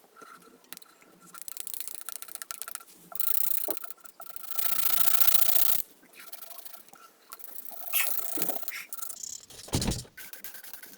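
Coloring strokes rubbing and scraping across paper in irregular passes, with one longer, louder stretch of strokes in the middle. A short low thump comes near the end.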